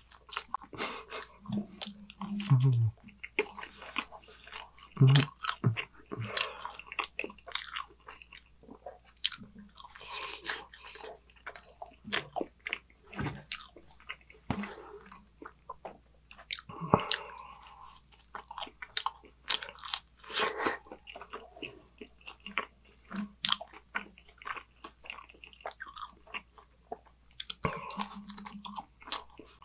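Close-miked eating of pepperoni pizza: biting, chewing and crunching of crust, with many irregular wet mouth clicks and smacks.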